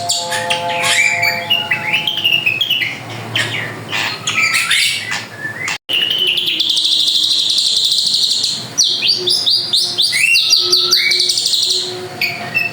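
Drongo (srigunting) singing a fast, varied song of sharp chirps, whistled slurs and rapid buzzy trills, with one long pulsing trill in the middle. The sound cuts out for an instant about six seconds in.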